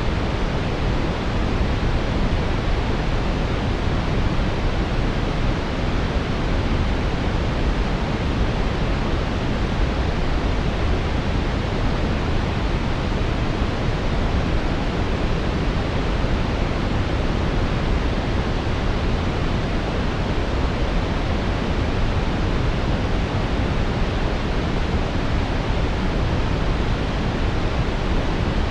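Brown noise: a steady, unchanging hiss weighted toward the low end, with no tones or events.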